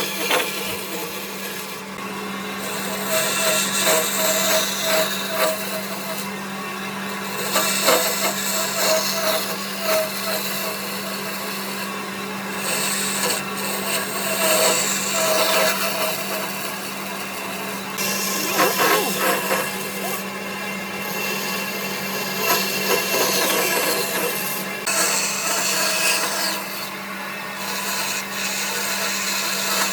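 An electric power tool working wood: a steady motor hum, with stretches of louder scraping noise lasting a few seconds each, separated by short lulls, as the tool bites into the wood.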